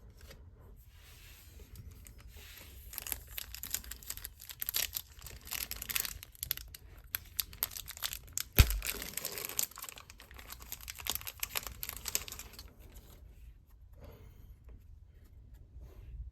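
Plastic packaging of Pokémon cards being torn open and crinkled, in dense crackly rustling that lasts about twelve seconds and then dies down. A single sharp knock comes about halfway through.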